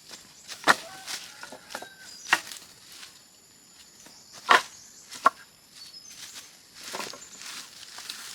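About six sharp, irregularly spaced knocks like chopping, the loudest a little under a second in and at about four and a half seconds, with faint short chirps between them.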